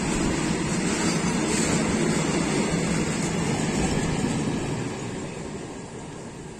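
A loaded freight train's wagons rolling past close by, a steady loud rumble of wheels on rails. About four and a half seconds in, as the brake van at the tail goes by, the noise starts to fade as the train draws away.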